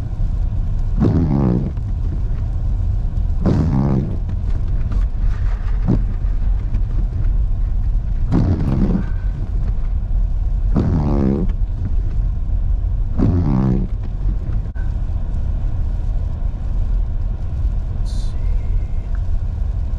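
Car cabin road noise while driving, a steady low rumble, with a short squeaking sweep about every two and a half seconds from the windshield wipers.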